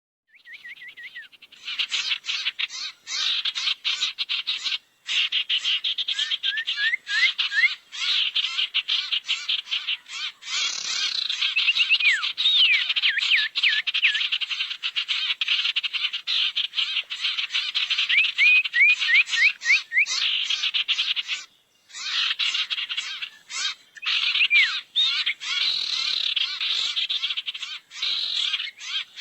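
Sirtu bird lure calls: a dense, rapid chattering of sharp ticks, broken by runs of short rising whistles, with brief breaks twice.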